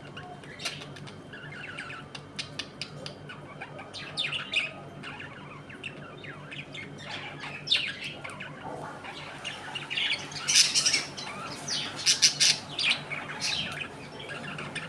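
A flock of budgerigars chattering, with rapid chirps and harsh squawks that grow louder in the second half. A faint steady low hum runs underneath.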